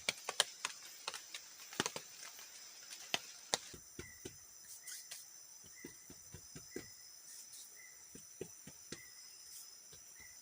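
Forest insects, crickets or similar, buzzing steadily at a high pitch and growing stronger about four seconds in, over irregular sharp clicks and knocks that thin out after the first few seconds. From about four seconds in, a short chirp repeats roughly every 0.7 seconds.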